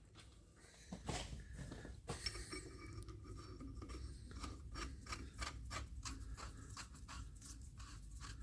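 Faint, quick scraping strokes on metal, about three a second, starting about two seconds in: hand work rubbing over a freshly lathe-cut steel thread.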